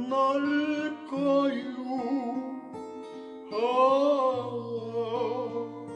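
A voice singing a slow Korean ballad over fingerpicked acoustic guitar arpeggios in a slow go-go rhythm, with a long held note from about halfway in.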